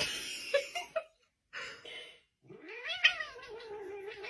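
A cat yowling: one call trailing off just after the start, then about halfway through a long drawn-out wail that rises and then holds.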